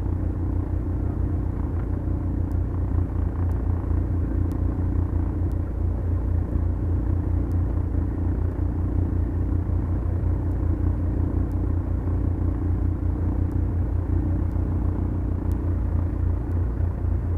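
Twin-engine Beechcraft Duchess's two four-cylinder Lycoming engines and propellers running steadily, a deep pulsing drone heard from inside the cockpit.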